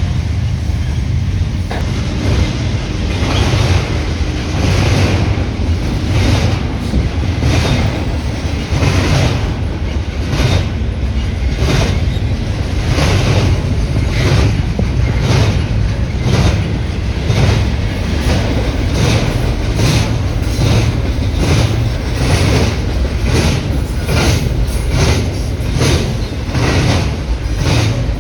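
Freight train cars rolling past, their wheels clicking over rail joints in an even rhythm of about one to two clicks a second over a steady low rumble.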